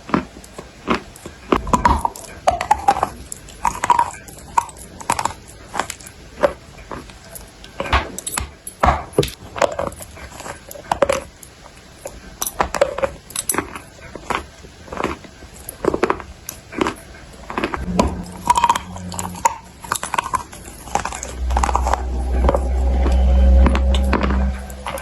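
Close-miked biting and chewing of dry clay: irregular sharp crunches and mouth sounds throughout. Near the end a loud low hum comes in for a few seconds and is louder than the crunching.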